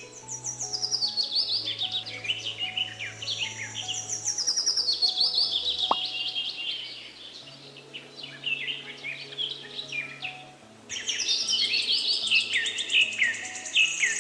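Many small birds chirping and twittering in dense, overlapping calls over soft background music with slow, held low notes. The bird sound drops off around 10 seconds in, then returns abruptly about a second later.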